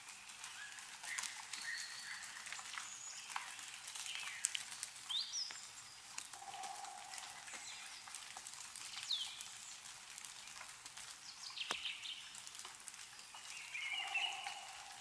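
Meltwater dripping from snow-laden trees in scattered irregular drops, with small birds chirping in short sliding notes throughout.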